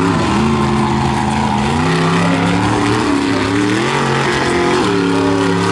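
Tailgator monster truck's engine running under throttle, its pitch stepping up three times and holding at each higher level.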